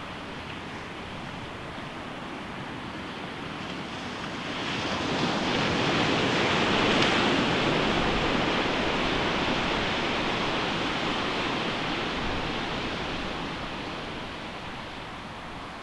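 Ocean surf breaking on a sandy beach: a wave builds about four seconds in, crashes and washes loudest a few seconds later, then slowly recedes.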